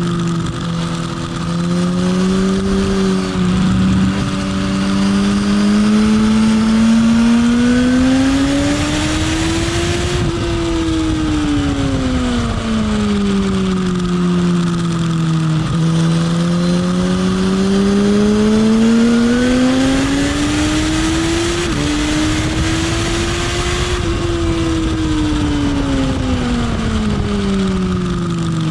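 Motorcycle engine on track, the revs climbing slowly and dropping back twice as the bike accelerates and eases off, over a steady hiss.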